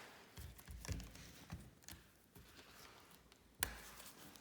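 Faint clicks and taps from handling a thermostat's plastic wiring base and a thermostat wire being worked out of its push-in terminal, with one sharper click about three and a half seconds in.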